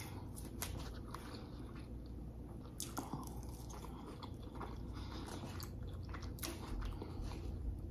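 A person chewing a mouthful of a burrito bowl with lettuce, close to the microphone: quiet chewing with scattered crunches and mouth clicks, and a plastic fork picking at the food in the bowl.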